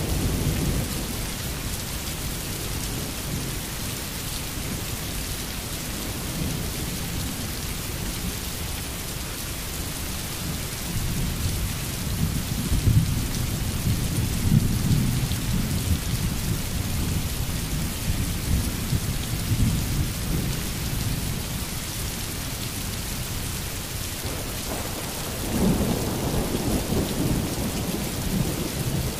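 Steady rain falling as an even hiss, with low rolling rumbles of thunder swelling in around the middle and again near the end.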